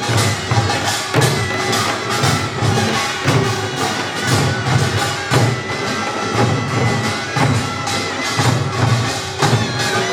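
Korean pungmul band playing a fast, even rhythm of struck percussion (drums and gongs), with a taepyeongso's held reedy notes over it.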